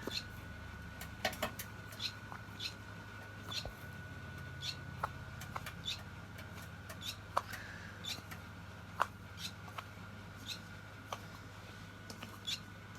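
Short, high peeps from a baby bird, scattered irregularly about once or twice a second, over a steady faint high whine.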